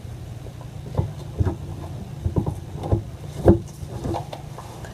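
A plastic hair-colour tube and applicator bottle being handled, making a run of irregular short knocks and clicks, over a steady low hum.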